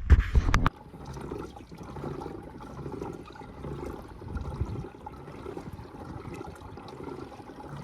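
A few loud knocks in the first second, then water lapping and trickling steadily against a kayak's hull.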